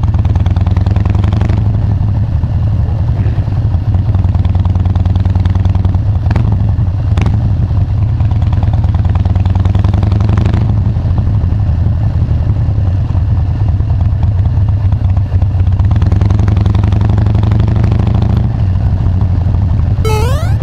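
Harley-Davidson Dyna Wide Glide's V-twin engine running steadily, a deep, even exhaust note. Two brief sharp sounds come about six and seven seconds in, and the sound swells a little near the end.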